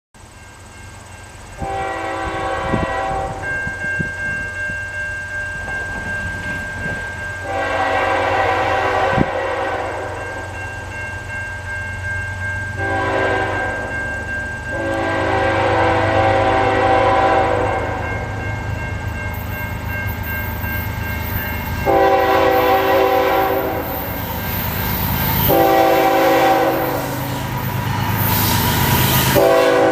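Canadian National diesel freight locomotive's horn sounding a series of blasts, long and short, over a steady low engine rumble. Wheel and rail noise grows louder near the end as the train comes closer.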